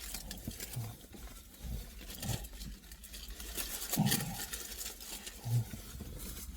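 Someone eating a pork doner kebab: scattered chewing and rustling noises, with a few short low hums.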